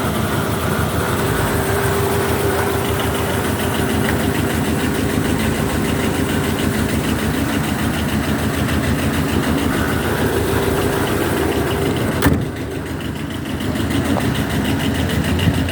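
An engine idling steadily, with a single sharp knock about twelve seconds in.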